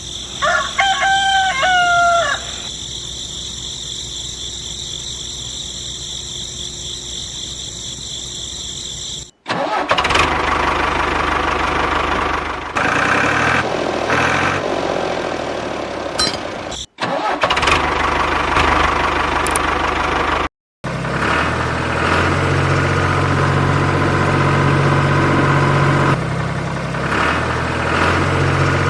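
A rooster crows once over a steady high-pitched ringing. Then a small motor of a DIY model tractor runs, first with a noisy rattle broken by two brief cuts, then settling into a steady hum.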